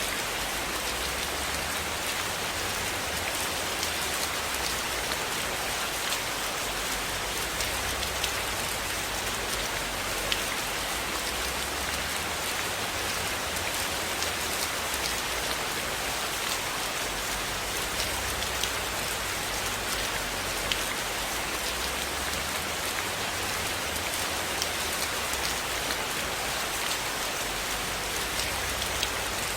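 Steady rain falling, an even hiss, with many scattered sharp ticks of drops throughout.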